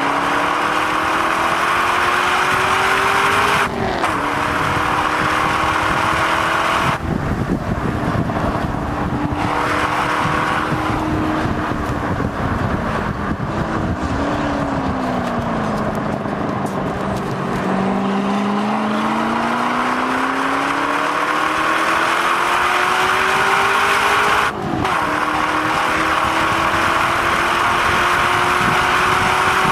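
Chevrolet Corvette C6's V8 driven hard around a racetrack: the engine note climbs with sharp upshifts about four seconds in and near the end, falls away off the throttle in the middle with one short rise and fall of revs, then climbs steadily again under acceleration. Wind and road rush run underneath.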